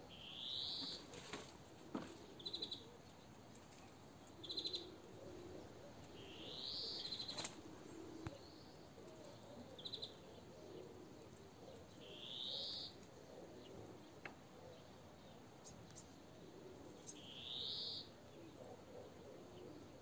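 Songbirds calling in a tree: a rising call of about a second, repeated four times five to six seconds apart, with short quick trilled notes in between.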